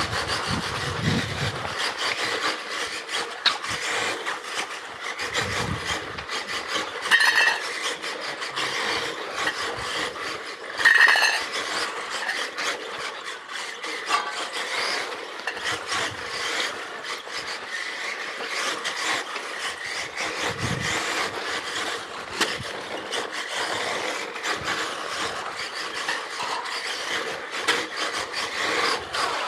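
Xray XB4 electric RC car running a timed stage on pavement: the motor's whine mixed with its tyres scrabbling and scraping over the surface. The sound flares louder twice, about seven and eleven seconds in.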